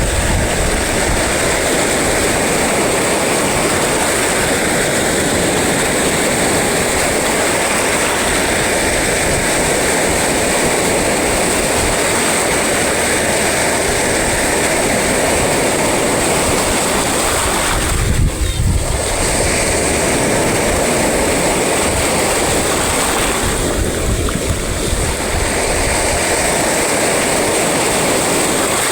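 Sea surf breaking and washing on the shore, a loud, steady roar of water. Low gusts of wind buffet the microphone about eighteen seconds in and again around twenty-four seconds.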